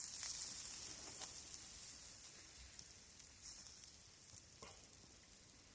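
Steak sizzling on a hot pan over a fire, a high hiss that slowly fades, with a few faint light clicks.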